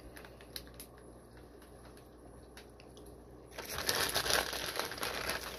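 Plastic fish shipping bag crinkling as it is handled, with a few faint ticks at first and a loud burst of crinkling from a little past halfway to near the end.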